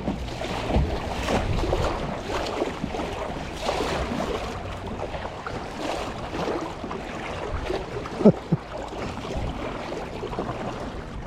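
Kayak paddle strokes in the water, about one a second, with water and wind noise on the microphone. Two short squeaks about eight seconds in.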